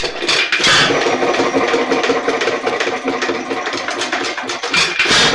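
Nelson Little Jumbo 1½ HP hit-and-miss engine starting up and running with a fast, steady clatter, with two louder bursts about a second in and near the end. It is only trying to run, starved of fuel because the check valve is not passing gas.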